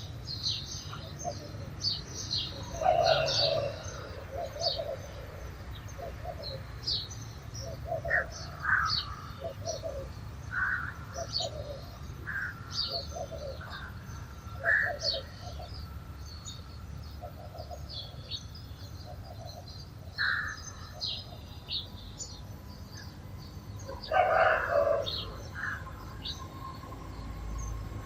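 Sparrows chirping in a busy stream of short, high chirps, over lower bird notes that repeat about once a second. Two louder, fuller bursts stand out, about three seconds in and again late on.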